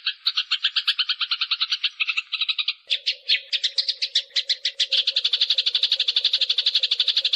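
Eurasian tree sparrows (burung gereja) fighting: a fast, unbroken run of sharp chirps, about ten a second. About three seconds in the chirping changes pattern and a steady low hum joins beneath it.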